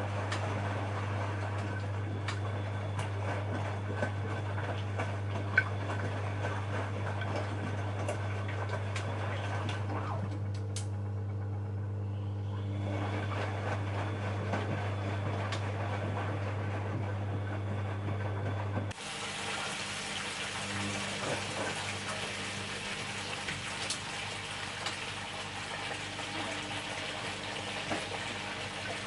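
Bosch Maxx Special WFL 248Y washing machine running with water flowing inside it. A steady low hum cuts off abruptly about two-thirds of the way through, leaving a hissing rush of water.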